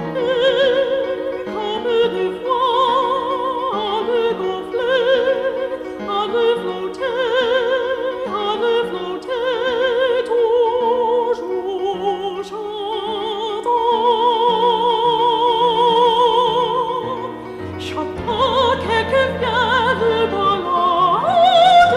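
Operatic singing with a wide vibrato, drawn out in long held notes with no clear words, over an instrumental accompaniment that steps from note to note underneath. The music dips briefly in loudness a few seconds before the end, then the voice returns.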